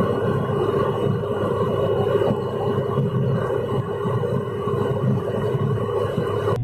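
Tata Tigor at high speed, around 150 km/h, heard from inside: a steady engine drone with a held tone over road and wind rumble, unchanging throughout.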